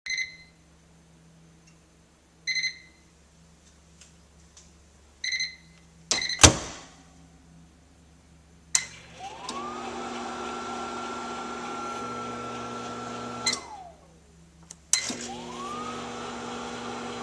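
Microwave oven beeping three times, a loud clunk, then its motor hum starting with a rising whine, running about four seconds, winding down with a falling whine, and starting up again a second or so later. The oven is switching itself on and off on its own, a malfunction.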